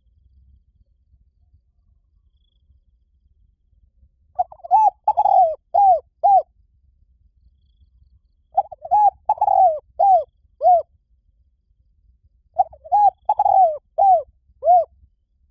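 Spotted dove cooing: three phrases about four seconds apart, each a run of five or six quick coo notes, the last notes curving down in pitch.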